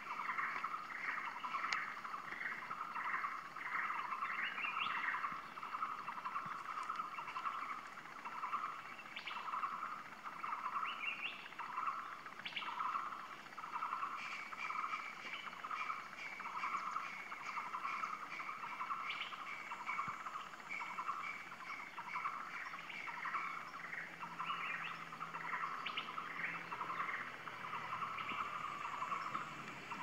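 A bird calling a long, even series of short notes, about two a second, without a break, with a second, higher run of notes joining in at times.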